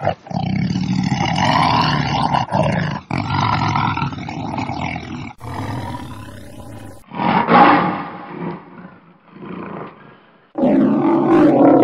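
Big cat roaring and growling: a run of loud, rough roars in short clips joined by abrupt cuts, with a quieter stretch in the second half.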